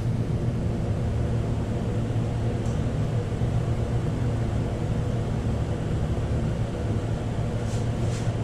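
A steady low hum with a faint hiss, unchanged throughout, with a few faint light clicks near the end.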